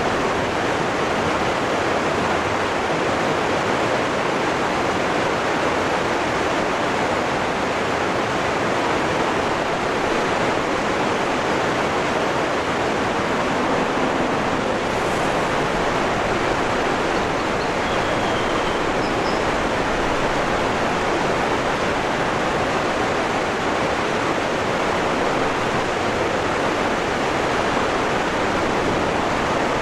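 Waterfall rushing steadily, an even roar of falling water. A few faint high chirps come through about halfway.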